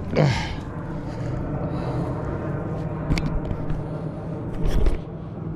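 A steady low motor hum, with a short falling vocal grunt at the start and a couple of dull knocks near the end.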